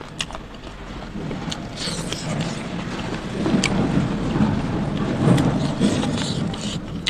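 Close-miked chewing of pork leg and pork nose, with scattered sharp clicks; it grows louder about three seconds in.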